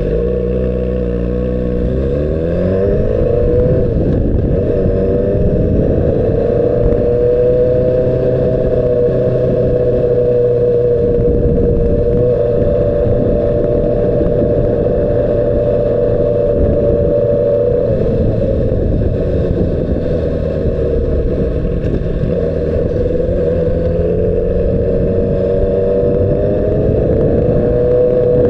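2006 Honda CBR600RR's inline-four engine pulling hard up through the revs, then holding high steady revs at speed. It eases off slightly and climbs again near the end. The sound is muffled, with almost nothing above the low mids: the poor audio of an action camera recording through an external microphone on a cable.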